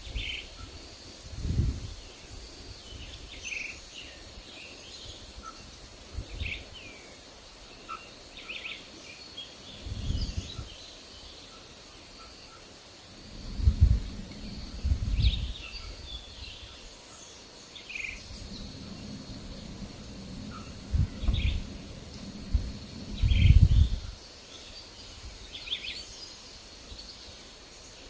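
Forest birds giving short, scattered chirps, over a faint steady high drone. Gusts of wind rumble on the microphone several times, loudest past the middle.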